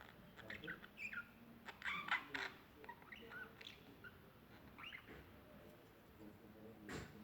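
A bird chirping: a quick series of short, pitch-bending chirps through the first few seconds, then quiet chirping stops, with a single sharp click near the end.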